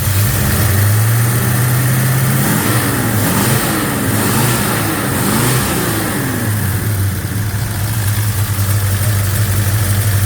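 Chevrolet 307 small-block V8 idling, revved up and down a few times in the middle, then settling back to a steady idle. The valve train runs quiet, its mismatched valve springs and retainers now corrected.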